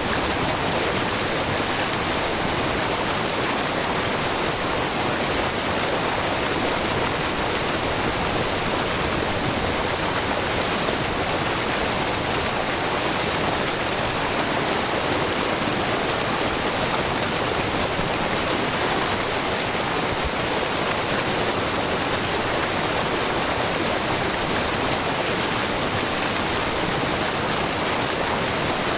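Steady rushing and splashing of a wide, low waterfall: many threads of groundwater spilling about 3 m over a broad rock face into a pool.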